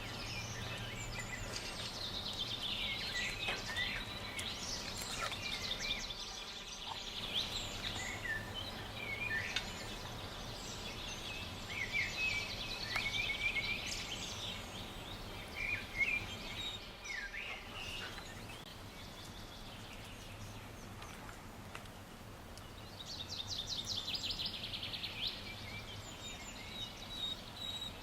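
Songbirds singing and calling, many short chirps and whistles overlapping, with a fast rattling trill near the end, over a steady low background hum.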